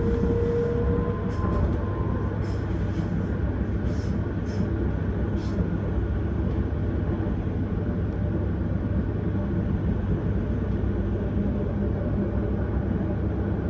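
Vienna S-Bahn electric train running along the line: a steady rumble of wheels on the track. The drive's whine rises slightly and fades out in the first two seconds.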